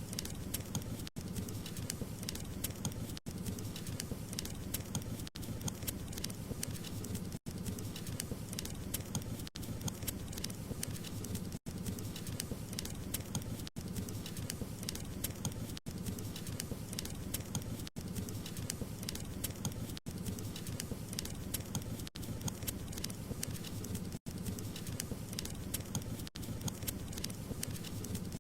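Wood fire crackling: a dense run of small pops and snaps over a low, steady rumble of burning. The sound drops out briefly about every two seconds.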